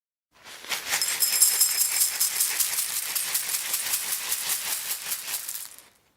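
A dry rattle shaken rapidly and steadily for about five seconds, made of many quick strokes, then stopping shortly before the end.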